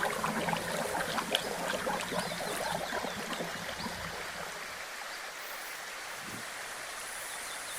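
Water flowing and splashing over rocks, busier in the first half and settling into a softer, steady rush about halfway through.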